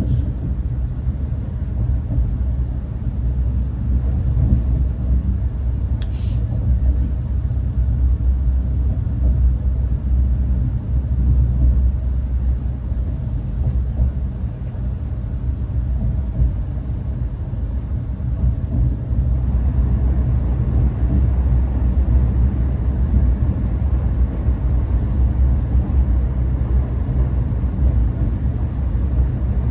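Renfe class 130 (Talgo 250) high-speed train running on the line, a steady low rumble of ride noise. There is a brief click about six seconds in, and the rumble grows a little louder and fuller about twenty seconds in.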